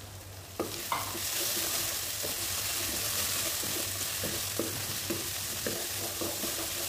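Chopped onion, garlic and tomato paste sizzling in hot oil in a nonstick wok while a wooden spatula stirs and scrapes through it, with light clicks of the spatula against the pan. The sizzling rises sharply about half a second in as the stirring starts and then holds steady.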